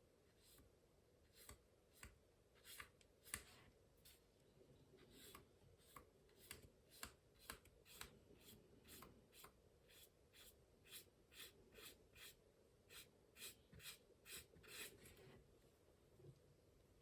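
Faint, quick strokes of a watercolour paintbrush across paper, about two a second, stopping near the end.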